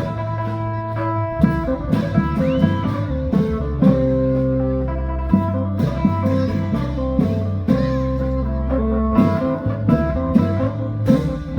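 Live band music: a plucked string lead over held bass notes that change every second or two, with regular drum hits.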